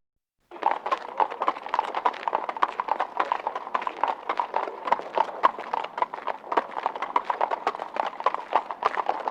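Footsteps clicking rapidly and densely on a hard surface, starting about half a second in and running on at a steady pace.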